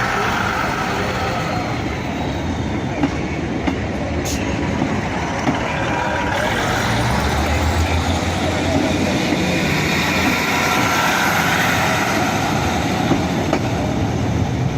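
Diesel multiple unit led by a Class 153 railcar pulling out of the station, its diesel engines running under load with a steady low hum that grows stronger about halfway through, over wheel and rail noise.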